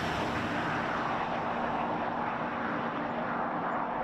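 Nissan Fairlady Z's 3.0-litre twin-turbo V6 heard from outside as the car drives on at speed: a steady engine drone mixed with tyre and wind noise.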